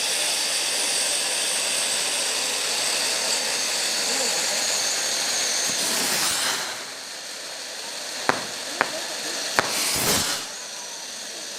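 A firework spraying with a steady high hiss, faintly whistling, that dies down about two-thirds of the way through; then three sharp cracks and a short loud whoosh of another firework.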